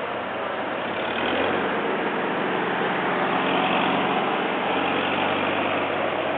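Vintage farm tractor engine running with a steady low hum, getting louder about a second in.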